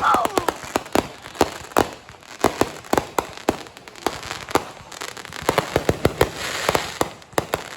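Fireworks going off: many sharp cracks and pops at irregular spacing, with a spell of dense crackling about six to seven seconds in.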